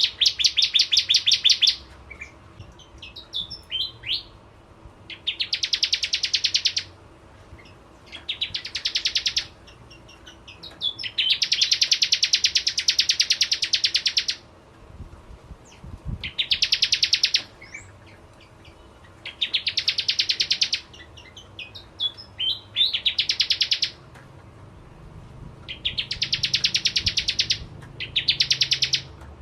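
Bar-winged prinia (prenjak jawa) singing in bursts: about eight loud, rapid, buzzy trills, each one to three seconds long, with softer chips between them.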